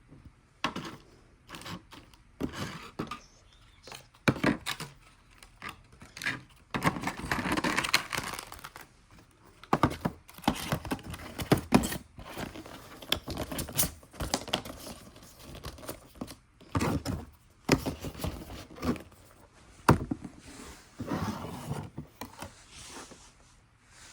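Packaging being handled during a model unboxing: plastic and paper crinkling and tearing, with irregular sharp clicks and knocks, and longer crinkling stretches about a third of the way in and again near the end.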